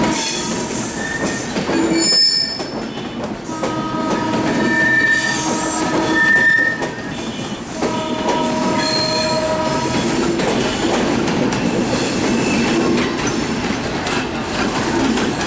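Passenger train running on the rails with a steady rumble, its wheels squealing in several high, drawn-out tones that come and go.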